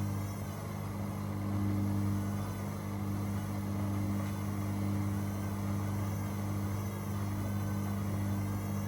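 Steady low hum of a running washing machine motor.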